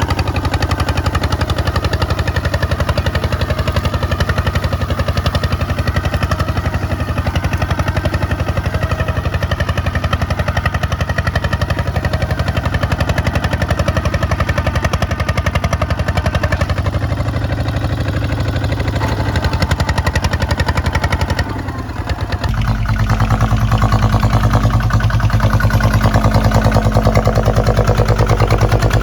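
Kubota ZT155 two-wheel tractor's single-cylinder diesel engine running with a rapid, even chugging beat. About 22 seconds in it dips briefly, then runs louder and heavier.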